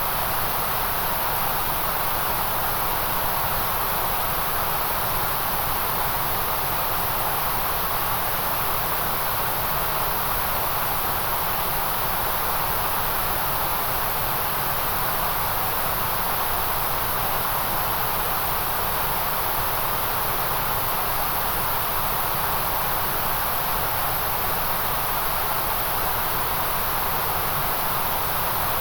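Steady, unchanging noise hiss of a white-noise track, strongest in the middle around 1 kHz with a bright high hiss on top.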